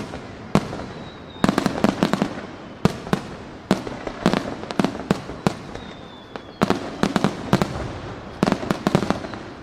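Aerial fireworks shells bursting in rapid clusters of sharp bangs and crackling reports, each burst trailing off in an echo.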